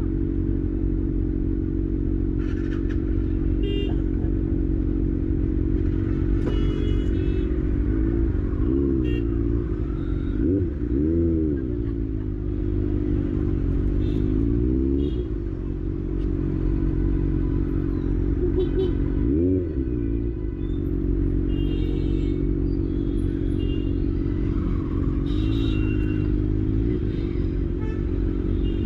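Kawasaki ZX-6R inline-four motorcycle engine running steadily, with a few brief rises and falls in pitch.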